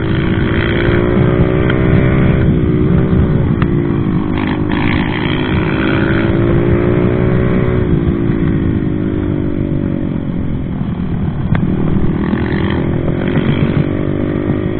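Regulmoto ZR250 enduro motorcycle engine running while being ridden, the revs rising and falling with the throttle. It eases off about ten seconds in and picks up again shortly after.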